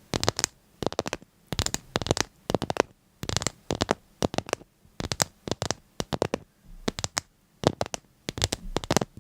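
Quick clusters of crisp clicks and scratching crackles, each cluster lasting a fraction of a second with brief pauses between.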